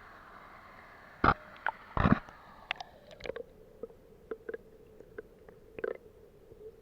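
Irregular sharp knocks and clicks, two loud ones about a second and two seconds in, then lighter ones, over a faint hiss that gives way to a faint steady tone about three seconds in.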